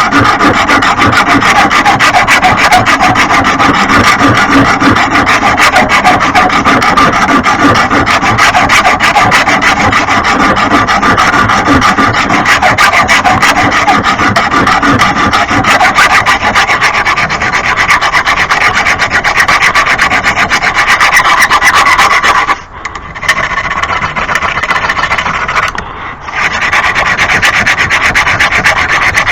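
Steel lawn mower blade being sharpened: a loud, continuous abrasive rasping of metal against an abrasive. About three quarters of the way through it eases off for a few seconds, then picks up again.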